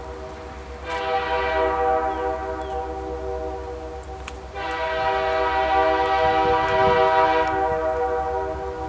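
Locomotive multi-chime air horn sounding two long blasts, the second starting about halfway through, over the low rumble of a passing train.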